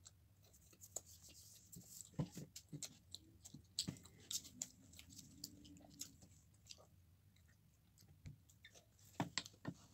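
Faint mouth sounds of someone chewing pizza close to the microphone: scattered soft clicks and smacks at an uneven pace.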